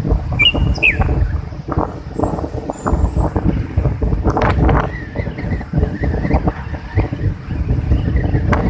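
Strong wind gusting against the microphone in irregular low buffets, over the wash of breaking sea waves.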